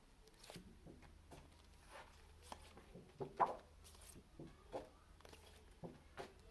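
A woman saying single phonics sounds quickly one after another: short, separate speech sounds about one or two a second, some of them hissing consonants.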